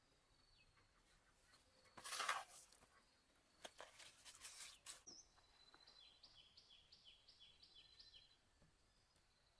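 A bird calling in forest: a run of about eight quick notes, each dropping in pitch, a little over six seconds in, with thin high whistles before it. About two seconds in a brief rush of noise is the loudest sound, followed by a few shorter noisy strokes.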